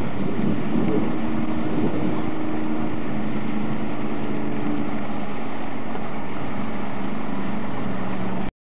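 Motorboat engine running steadily, with the noise of wind and water over it; it cuts off suddenly near the end.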